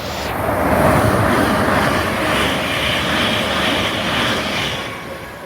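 A train passing through the station at speed: a loud rush of wheel and air noise with a faint steady tone, building about half a second in, holding, then fading away near the end.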